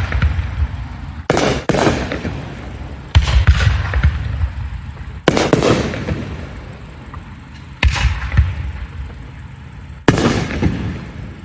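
Aerial fireworks shells bursting overhead: six sharp bangs spaced about one to two and a half seconds apart, each fading away over a second or two.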